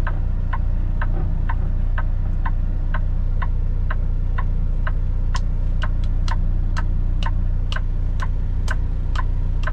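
Turn signal ticking evenly, about twice a second, for a right-hand turn, over the steady low idle of a Kenworth T680 semi truck's engine.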